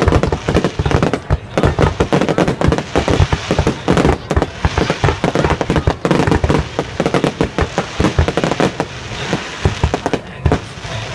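Fireworks going off in rapid succession: many sharp bangs close together, overlapping one another.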